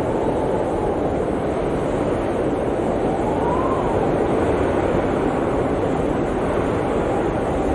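Blizzard wind, a steady deep rush with a faint whistling howl that rises and falls in pitch, highest about halfway through.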